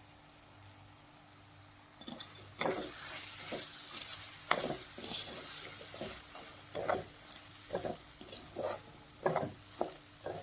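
Food sizzling in a hot pan while it is stirred. A utensil scrapes and knocks against the pan in short, irregular strokes, starting about two seconds in.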